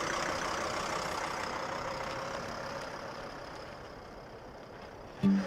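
A motor vehicle driving away, its engine and road noise fading steadily. Music starts just at the end.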